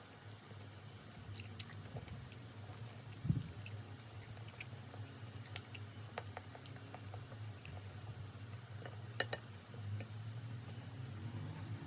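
A person chewing food, with scattered small clicks and taps.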